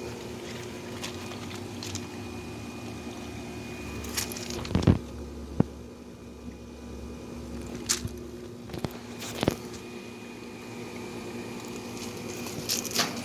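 A steady low machine hum, with a few scattered knocks and taps.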